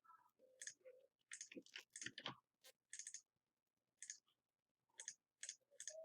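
Faint computer mouse clicks, about a dozen short sharp clicks at uneven spacing.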